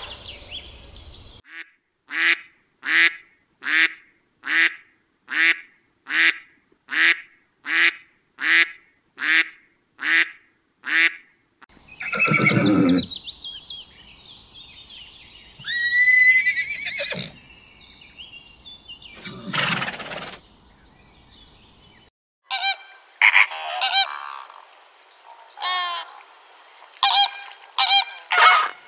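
A run of about a dozen evenly spaced honking calls, then two longer loud calls from a horse neighing. Near the end, flamingos honk in quick, overlapping calls.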